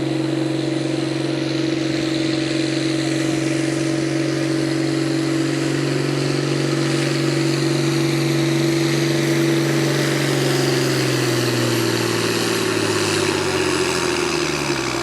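Pulling vehicle's engine running flat out at steady high revs as it drags the weight-transfer sled down the track. About ten seconds in, the pitch drops steadily as the engine winds down at the end of the run.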